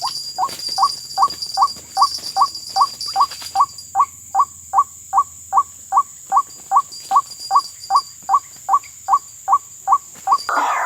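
White-breasted waterhen (ruak-ruak) call: one short note, sliding up to its pitch, repeated steadily close to three times a second.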